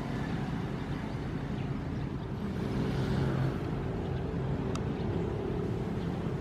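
Ocean surf: a steady low rumble of waves, with one wave washing in louder about three seconds in.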